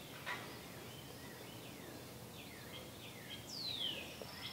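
Faint birds singing: a string of short chirps, then a longer whistle sliding downward near the end, over a low steady hiss. A brief click about a third of a second in.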